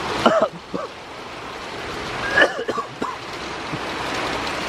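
Wind-driven heavy rain from a severe thunderstorm rushing over the microphone as a steady noise, growing a little louder, with a few short vocal sounds from a man near the start and about two and a half seconds in.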